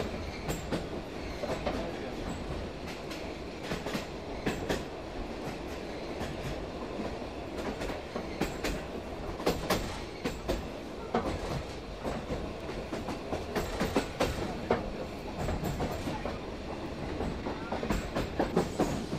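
Heard from inside a narrow-gauge railway carriage: the train running, a steady rumble with irregular clicks and knocks of the wheels over rail joints.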